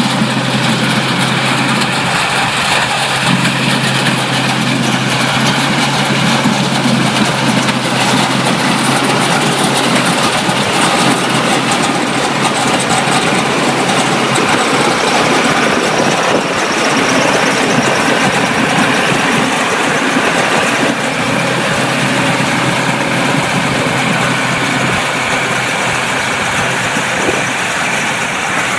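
Tractor engine running loud and continuous, with a steady low hum through about the first half.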